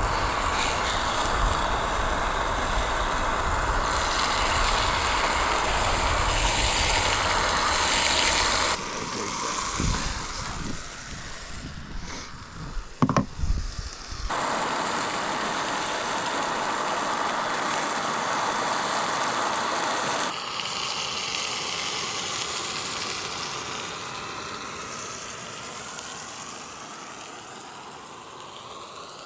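Steaks frying in beef tallow in a cast-iron pan, a steady sizzling hiss. The sizzle drops away for a few seconds around the middle, where a few sharp knocks sound, then resumes.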